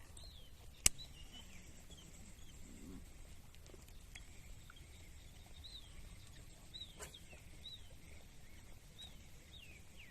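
Faint, short, high chirping bird calls, single arched notes repeated at irregular intervals, with a sharp click about a second in.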